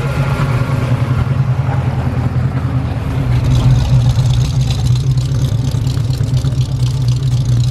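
FB Holden's engine idling, a steady low exhaust rumble.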